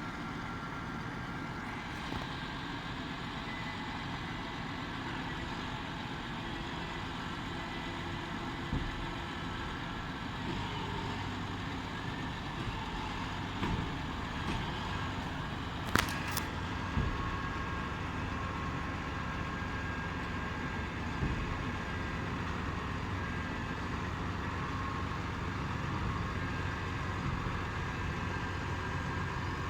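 New Holland T7 tractor engine running steadily, with a single sharp click a little past the middle.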